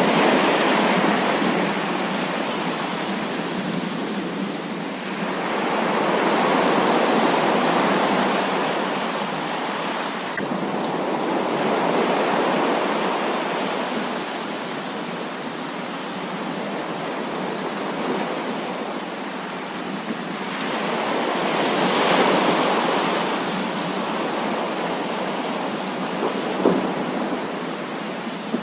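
Heavy thunderstorm rain pouring steadily, swelling and easing in long surges every several seconds, with thunder rolling. A brief sharp tap stands out near the end.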